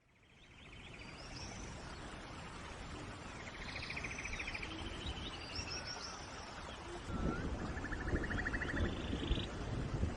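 Steady rain with birds singing over it: several trilled calls and short chirps. The sound fades in over the first second or so and grows louder and fuller about seven seconds in.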